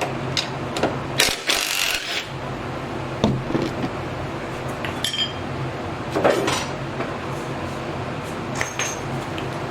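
Metallic clinks and rattles of a nut and hand tools as a front strut is unbolted and lowered out of the car, with a short rasping rattle about a second and a half in, over a steady low hum.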